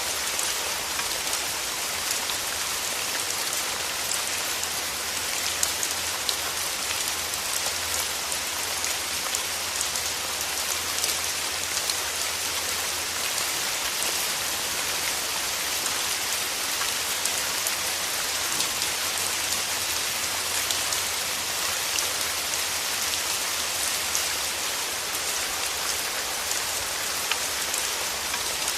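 Steady rain falling through forest trees: an even hiss of rainfall with many small, separate drop ticks, unchanging throughout.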